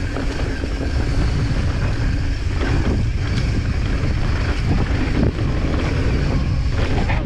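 Wind rushing over the microphone as a mountain bike descends a rough dirt trail at speed, with tyre noise and scattered knocks and clatters from the bike over the terrain.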